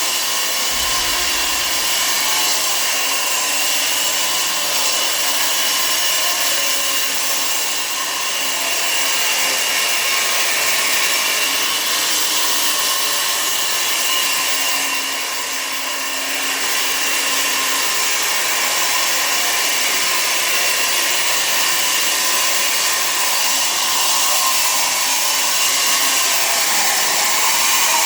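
A power tool running continuously with a steady high whine over a loud hiss of noise, its pitch barely changing.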